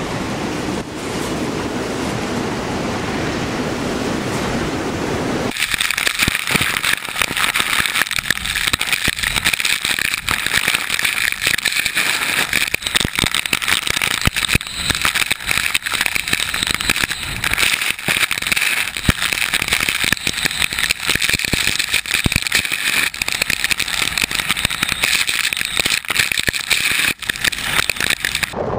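Hurricane wind and rain noise, a steady loud rush. About five seconds in it changes abruptly from a lower rumble to a brighter hiss peppered with many small sharp taps.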